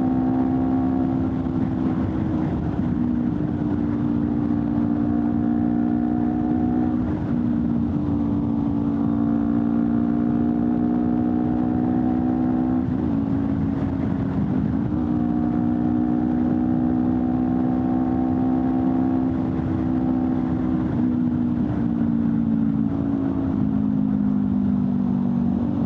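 Honda CBR250RR parallel-twin engine through an Akrapovic slip-on exhaust, running at a nearly steady pitch while riding. The pitch wobbles briefly about halfway through and eases a little lower near the end.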